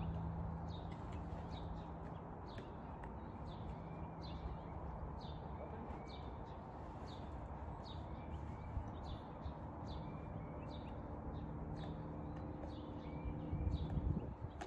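Outdoor ambience: a bird repeats a short, falling chirp about twice a second over a steady low hum, with a few low thumps near the end.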